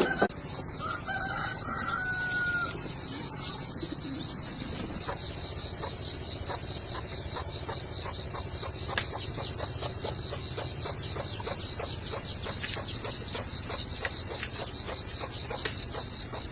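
A rooster crowing once, a drawn-out call of under two seconds about a second in, over a steady high insect buzz. After that comes a long run of light, irregular clicks or taps.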